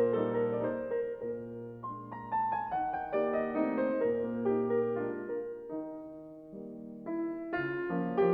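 Slow, gentle piano music: single notes and chords that ring and fade, growing softer about two thirds of the way through before fuller chords come in near the end.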